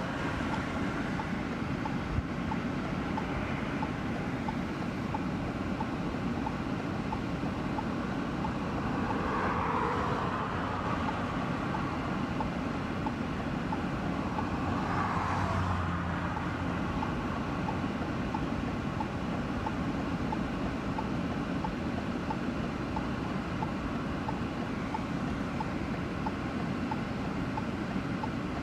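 Steady vehicle and wind noise, with two louder swells of noise about ten and fifteen seconds in.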